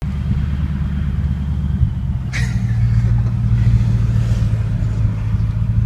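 Car engine running at a low, steady rumble, its note shifting slightly about two seconds in, with one brief sharp sound just after.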